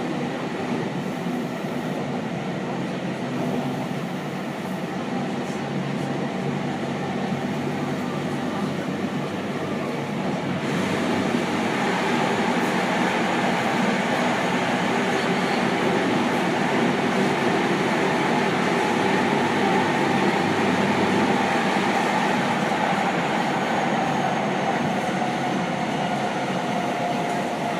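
Running sound inside a Seibu 6000 series train car with a Hitachi GTO-VVVF drive: steady wheel, rail and traction-motor noise that grows louder and brighter from about ten seconds in.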